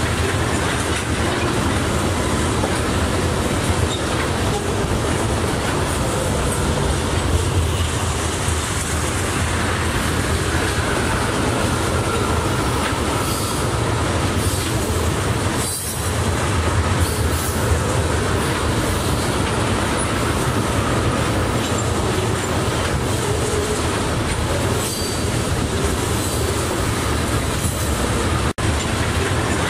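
A freight train of loaded crude-oil tank cars rolling past at speed: a steady low rumble of steel wheels on rail, with clacks over the rail joints and a faint wheel squeal through the middle. The sound cuts out for an instant near the end.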